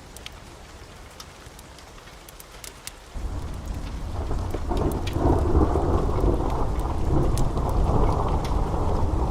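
Wood fire crackling with sharp pops throughout. About three seconds in, a deep rumble starts abruptly, swells over the next two seconds and keeps rolling.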